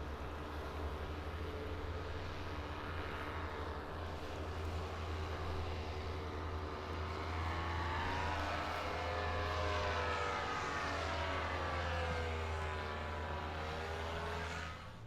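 Boat engine running with a steady low drone; from about halfway through, its pitch rises and falls several times as the throttle is worked.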